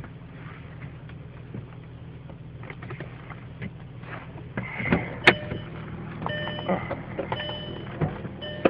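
A 2001 Audi S4's twin-turbo V6 idling steadily, with scattered clicks and one sharp click about five seconds in. Near the end, an electronic warning chime sounds about once a second.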